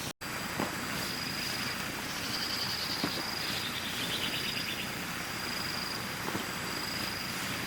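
Insects trilling: one steady high-pitched trill with bouts of fast pulsed chirping over an even background hiss. The sound cuts out for an instant near the start.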